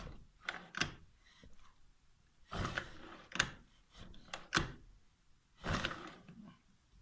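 A few separate knocks and short scraping sounds with quiet gaps between them, as parts or tools are handled.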